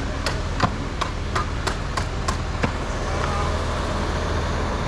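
A truck engine running steadily with a low hum, under a quick series of sharp knocks, about three a second, that stop about two and a half seconds in.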